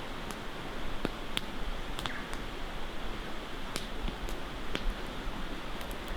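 Campfire crackling: irregular sharp pops of burning wood over a steady background hiss.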